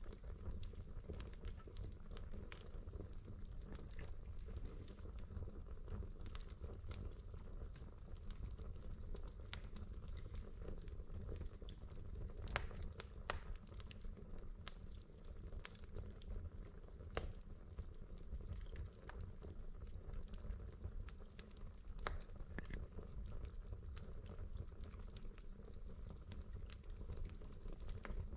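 Wood fire burning in a fireplace: a steady low rumble with frequent irregular crackles and pops from the burning logs, a few sharper pops standing out.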